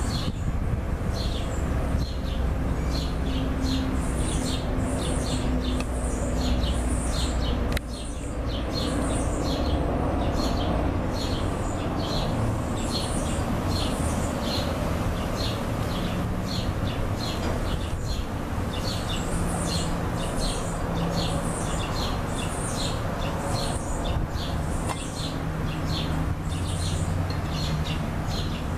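A bird chirping over and over, short high chirps about one to two a second, over a steady low background noise.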